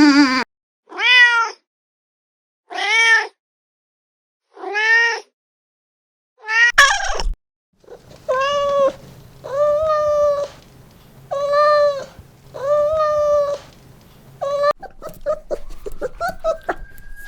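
Domestic cat meowing: three separate meows, each rising and falling in pitch, then after a cut four more drawn-out meows in a second recording with a faint hum behind.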